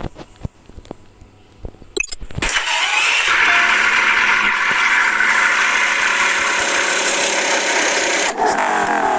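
A few clicks, then the Honda Integra Type R's K20A 2.0-litre four-cylinder engine is cranked by the starter and catches about two seconds in. It then runs at a steady idle, with a shift in its note near the end.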